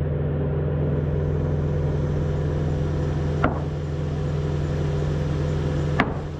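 An engine running steadily at idle, with two sharp knocks, one about halfway through and one near the end.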